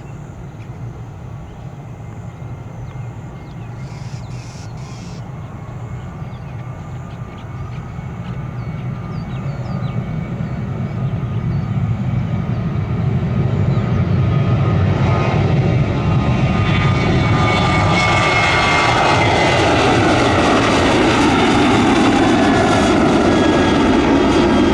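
Jet airliner on final approach, its engine noise growing steadily louder for about fifteen seconds, then a loud, steady jet rumble with a whine that slowly falls in pitch as it passes close.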